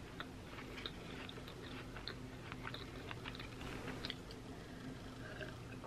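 Faint close-up mouth sounds of chewing a Ritz cracker topped with Brie and honey: small wet clicks and crunches scattered irregularly, with a sip from a glass about four seconds in.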